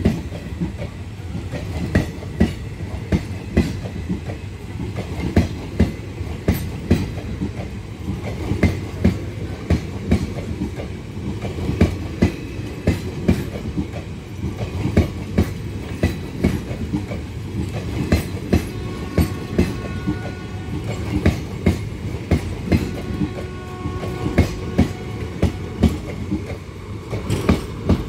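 Passenger train coaches rolling past along the track: a steady low rumble with the wheels clacking over the rail joints in a regular rhythm.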